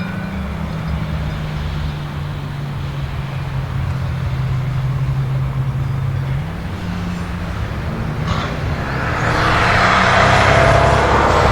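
Car engine running at low, steady revs with a low hum, then, about eight seconds in, a louder rushing engine and road noise that builds as a car comes closer or speeds up.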